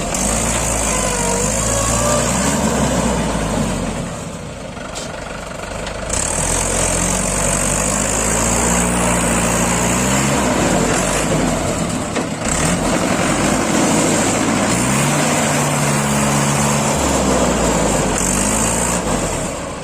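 Heavy diesel engine of a tractor or backhoe loader working in mud, its speed rising and falling several times as it is revved under load, with a high steady hiss that comes and goes.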